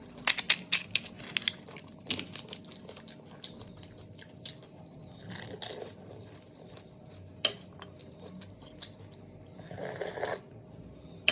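Pani puri being eaten: crisp puri shells crunching and wet chewing. A quick run of crunches comes in the first second or so, with further bursts of chewing about two, five and ten seconds in.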